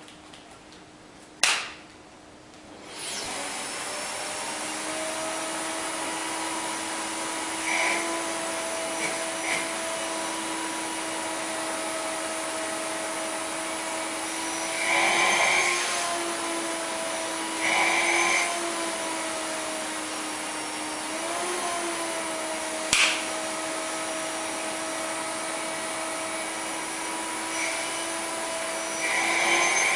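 A sharp click, then about three seconds in a vacuum cleaner starts and runs steadily with a hum and hiss. Several times its sound briefly swells into a louder rush and its pitch dips slightly.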